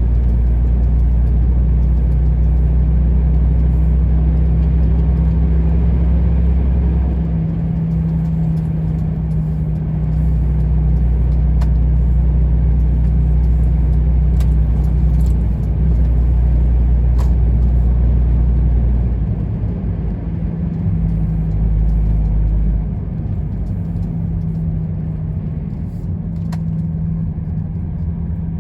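Heavy truck's diesel engine running with road noise while driving, a steady low drone that eases off about two-thirds of the way through, as if the truck slows.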